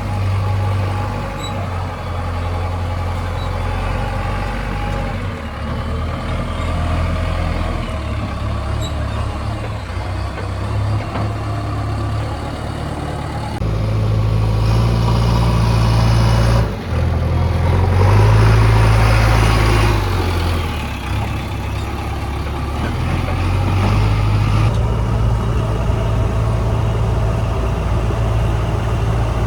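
JCB 3DX backhoe loader's diesel engine running under way, its engine note stepping up and down as the revs change. It gets louder for several seconds past the middle, with a brief sharp drop in between.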